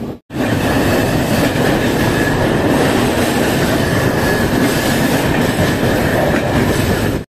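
Passenger train running through a tunnel, heard from the coach's open doorway: a loud, steady rumble of wheels on the rails, with a steady high whine over it. It starts just after a brief cut and stops abruptly at the end.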